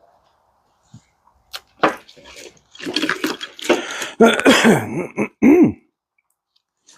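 Wiring harnesses and their packaging being handled and sorted: a few sharp clicks, then stretches of rustling and scraping, with a short wavering pitched sound near the end.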